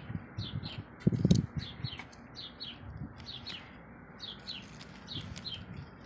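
A small bird chirping over and over, short falling notes mostly in quick pairs. About a second in there is a louder, brief rustle and knock as the plastic pot and trowel are handled in the dry potting soil.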